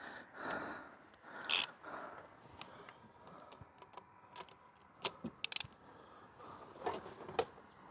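Ratchet wrench and socket clicking and creaking as they work a rust-seized spark plug loose from the engine's cylinder head, with a quick run of sharp clicks about five seconds in.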